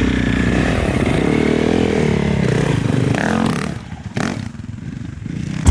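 Dirt bike engine running hard, its pitch rising and falling, then easing off to a quieter level about three and a half seconds in, with a single knock.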